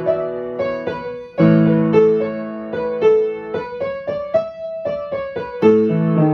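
Piano playing a beginner piece: a single-note melody over held chords in the left hand. A new chord is struck about a second and a half in and another near the end.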